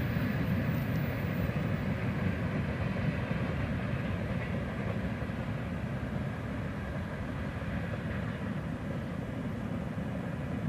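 A train running past on the line: a steady rumble of wheels on rail that slowly fades as it moves away.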